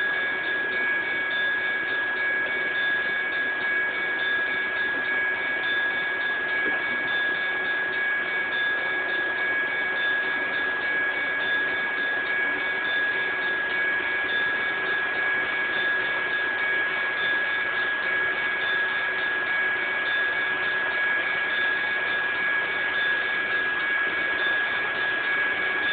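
HO scale model coal train running on the layout: a steady high-pitched whine over a constant hiss, with no change in speed.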